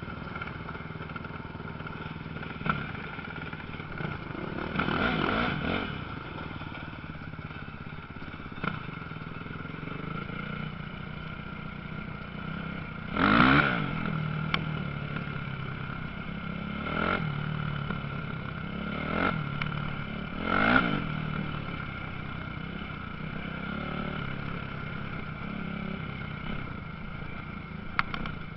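Motocross motorcycles racing on the track, with a steady background drone of engines. Bikes pass one after another, each swelling and then fading with a falling pitch; the loudest pass comes about halfway through.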